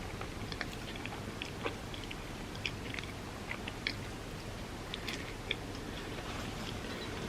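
A person chewing food, with irregular small clicks from the mouth scattered through the chewing.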